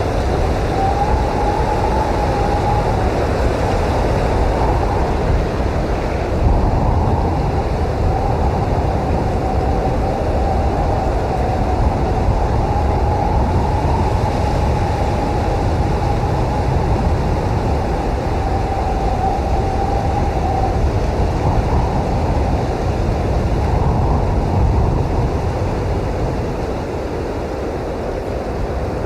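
Blizzard wind blowing hard and steadily, a deep rumble with a thin wavering whistle over its first two thirds.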